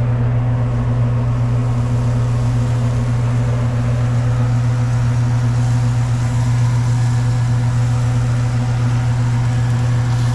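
Loud, steady low mechanical hum from a motor or machine, unchanging in pitch, with a faint hiss coming up in the high range about halfway through.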